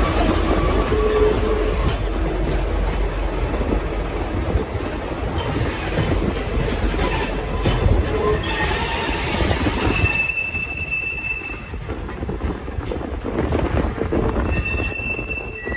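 Passenger train hauled by V/Line N-class locomotive N458 pulling out, with a steady rolling rumble from the wheels on the track. Wheels squeal on the rails in thin high tones, once about ten seconds in and again near the end, as the rumble eases.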